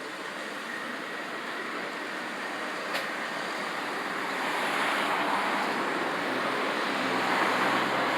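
Road traffic: a passing vehicle's tyre and engine noise, growing louder through the second half, with a low engine hum near the end.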